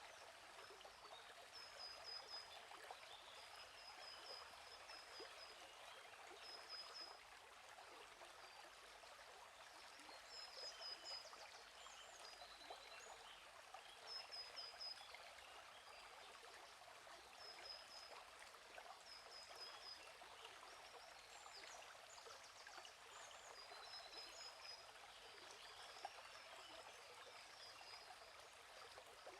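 Gently flowing stream, a faint steady rush of water, with short high bird chirps repeating every few seconds.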